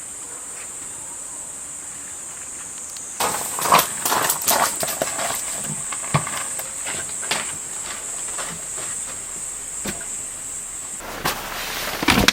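A steady high-pitched insect drone, with clattering knocks and clicks of gear being handled starting about three seconds in; the drone stops about a second before the end.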